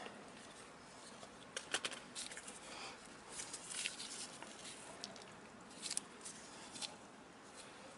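Quiet work noises: scattered light clicks and taps, with a small cluster about two seconds in and single clicks near the end.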